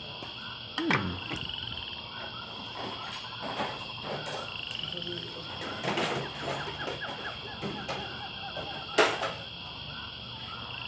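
An outdoor chorus of frog-like croaking chirps over a steady high buzz, with two sharp knocks, one about a second in and a louder one near the end.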